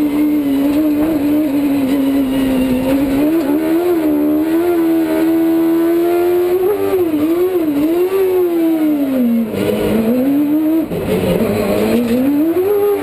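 Suzuki GSX-R 750 inline-four motorcycle engine in a Trabant slalom car, heard from inside the cabin, running hard at high revs. The revs hold steady for several seconds, then dip and rise in quick succession. About nine seconds in they fall away and climb back up through a rush of tyre noise.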